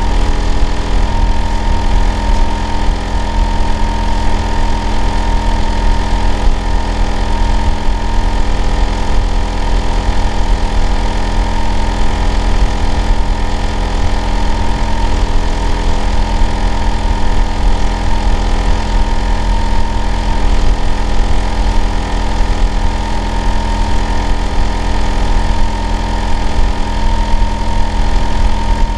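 Hitachi air-conditioner outdoor unit running steadily: a loud, deep hum with a constant high whine and several steady tones above it, unchanging throughout. It is the noise that the neighbour next door complains of as abnormal and too loud.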